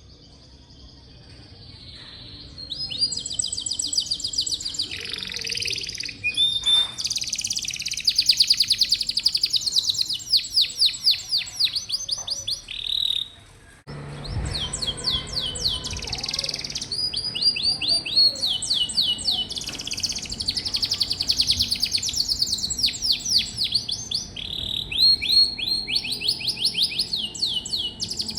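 Domestic canary singing: long runs of fast, rapidly repeated high trills that change from phrase to phrase. The song starts about two seconds in and breaks off briefly about halfway through.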